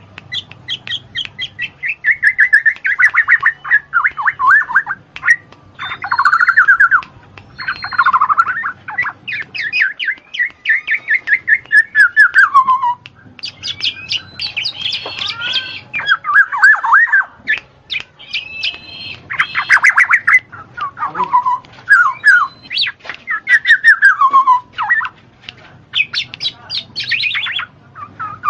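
A bird singing at close range in long runs of rapid trilled notes, phrase after phrase, many ending in a falling slur, with short pauses between; a faint low hum runs underneath.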